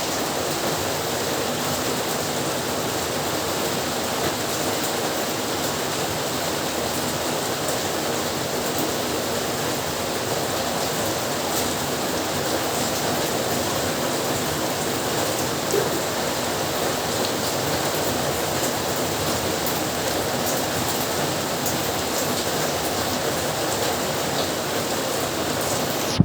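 Heavy rain falling steadily, a constant even hiss with a few faint drip ticks.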